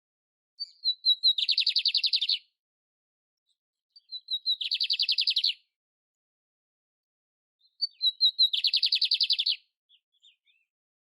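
A canary singing three short phrases, each a few quick high notes leading into a rapid, buzzy trill about a second long, with pauses of about two seconds between phrases.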